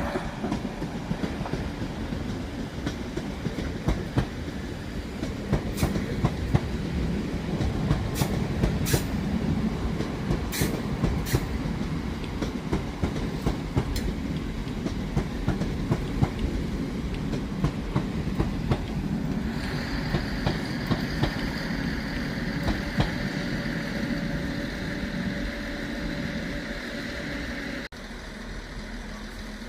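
London Northwestern Railway Class 350 electric multiple unit running out of the station, its wheels clattering and clicking over rail joints and pointwork. A steady high whine joins about two-thirds of the way through, and the sound drops abruptly near the end.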